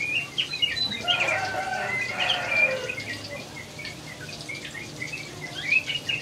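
Small birds chirping in quick, repeated short notes, with a louder, longer multi-note bird call from about one to three seconds in.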